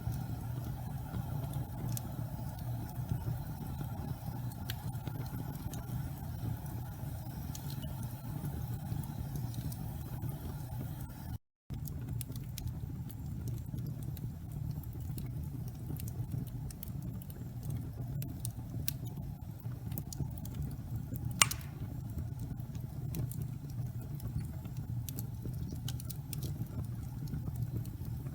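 Wood fire burning in a fireplace: a steady low rumble of the flames with scattered light crackles and one sharper pop about two thirds of the way through.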